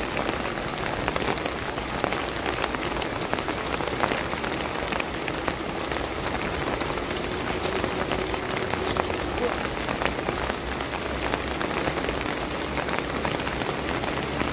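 Heavy rain falling, with many sharp individual drops striking close by.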